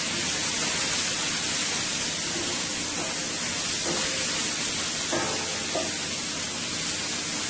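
Sliced sweet peppers and red onions sizzling steadily in a frying pan as they sauté.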